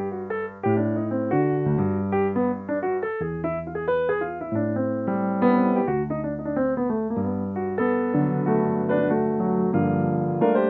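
Solo piano playing a flowing accompaniment: low bass notes held about a second each under chords and a melody line.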